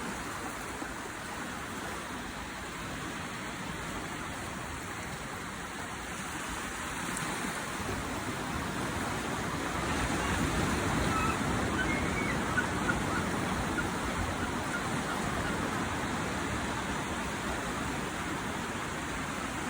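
Ocean surf: a steady rush of waves washing in, swelling louder about halfway through.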